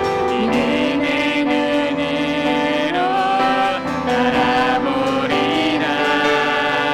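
A worship song: vocalists singing a slow melody over piano accompaniment, held notes with gliding changes of pitch.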